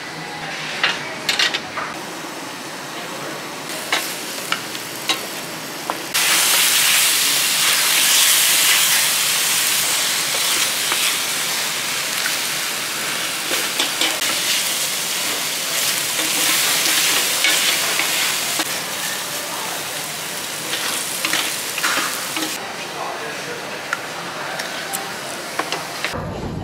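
Chicken, cabbage and noodles sizzling in a large steel pan on a tabletop burner while being stirred and turned with wooden spatulas. Sharp clinks come in the first few seconds. The sizzle turns much louder about six seconds in and drops back about twenty-two seconds in.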